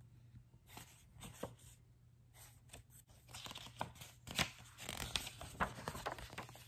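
A page of a picture book being turned by hand: soft scattered rustles and taps of paper, thicker and louder in the second half as the page lifts and slides over.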